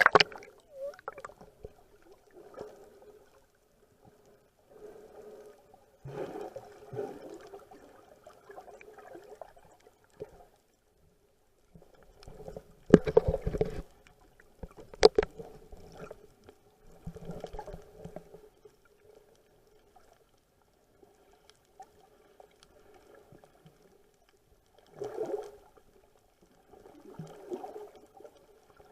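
Seawater sloshing and gurgling around a snorkeler in irregular bursts, with a few sharp knocks in the middle.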